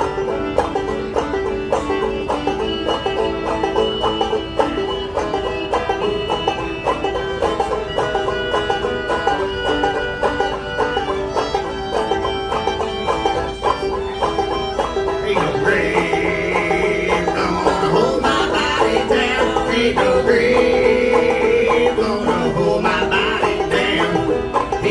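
Bluegrass band playing, led by fast banjo picking over a steady strummed accompaniment; about fifteen seconds in a fuller lead line joins and the music grows louder.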